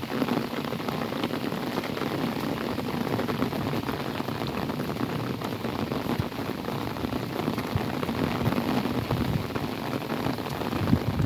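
Steady rain falling on an umbrella: a dense, continuous stream of raindrop hits.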